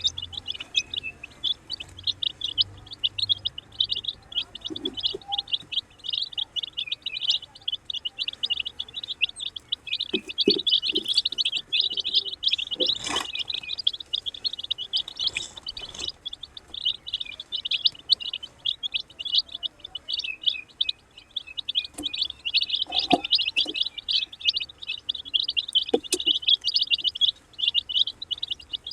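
A brood of baby chickens peeping continuously, many high-pitched cheeps overlapping at once, with a few soft knocks here and there.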